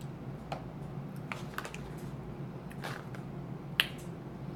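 Sharp, scattered crunches and clicks from chewing dry roasted sea salt chickpeas, about five in all, the loudest near the end.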